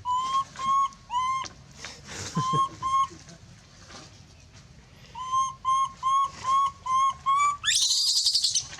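A monkey giving short, whistle-like coo calls, each rising and then levelling off, in a run of three, then two, then six. Near the end it breaks into a loud, harsh scream. These are distress calls for help.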